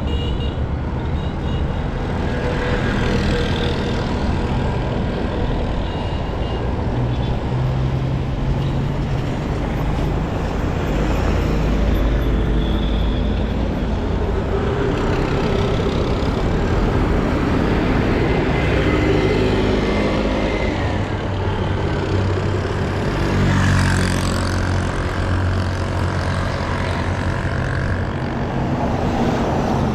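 City street traffic: the steady noise of motor vehicles running, with the hum of engines under road noise. Partway through, a vehicle passes a little louder, its pitch sliding.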